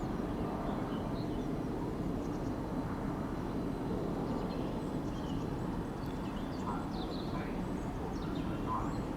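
Steady low outdoor rumble with small birds chirping now and then.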